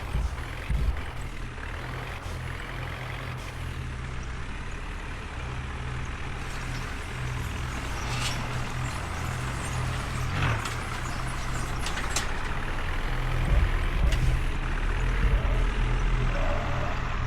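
Diesel tractor engine running steadily, with a few sharp knocks about eight, ten and twelve seconds in.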